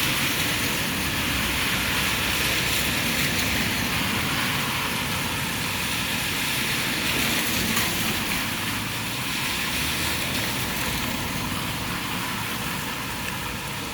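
Heavy rain pouring down in a steady hiss, with a low rumble of vehicle traffic underneath.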